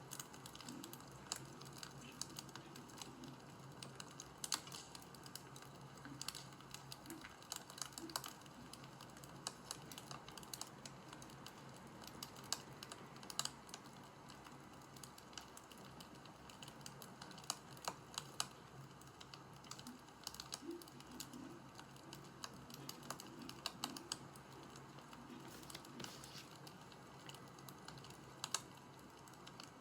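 Quiet, irregular sharp clicks and small pops of varying strength over a faint steady hum.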